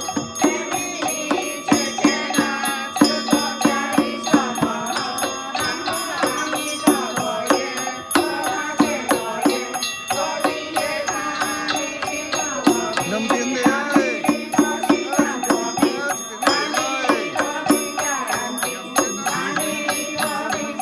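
Temple ritual music: a wavering, chant-like melody over a steady beat of percussion strikes.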